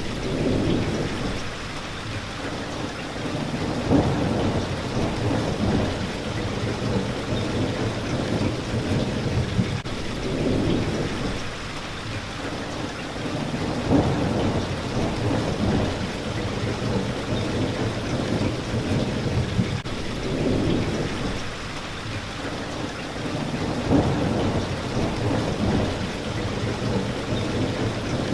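Steady rain hitting a window pane, with low rumbles of thunder swelling up and dying away every few seconds.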